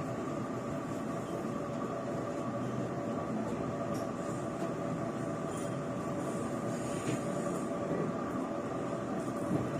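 Chu-Kuang Express passenger train running along the track: a steady rumble of wheels on rail with a steady hum over it.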